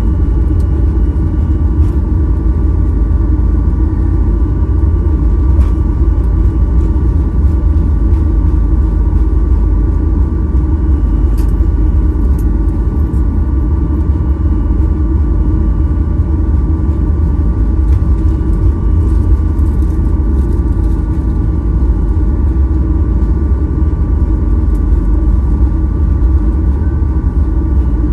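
Steady low rumble and hum inside the cabin of a Boeing 737-800 parked at the gate, with a few faint clicks.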